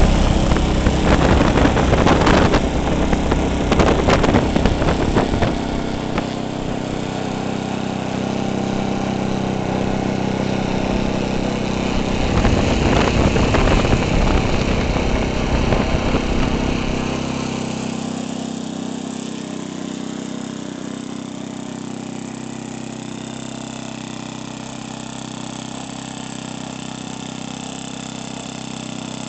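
OS 91 four-stroke glow engine in a radio-controlled Spitfire model running at warm-up: opened up in quick throttle blips over the first few seconds, run up again about twelve seconds in, then throttled back about seventeen seconds in to a steady, quieter idle.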